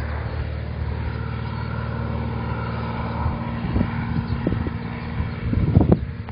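Cessna light aircraft's propeller engine running at a steady speed while it is tested. Near the end the engine sound gives way to a few irregular knocks.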